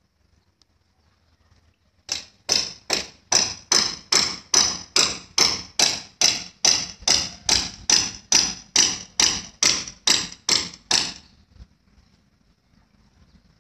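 A regular series of about twenty sharp knocks, a little over two a second, starting about two seconds in and stopping abruptly near eleven seconds.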